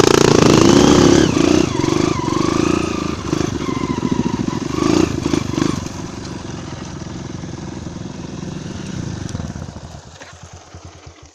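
Honda single-cylinder four-stroke trail motorcycle engine revving, its pitch rising and falling over the first few seconds, then running lower and steadier before dying away near the end.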